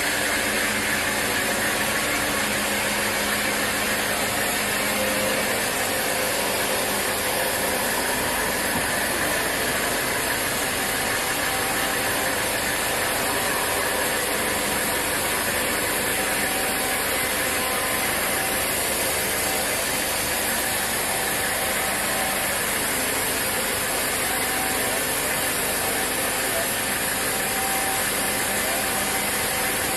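Sawmill machinery running steadily: a continuous, even mechanical noise with no pauses or separate strokes.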